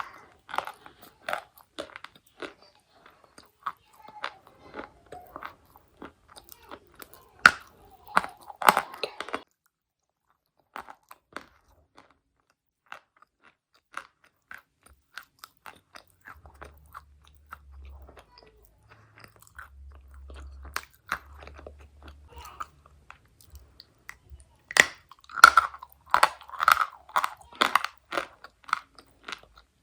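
Dry chalk bitten and chewed close to the microphone: sharp, dry crunches that come thick and fast at first, thin out through the middle, and come thick again near the end.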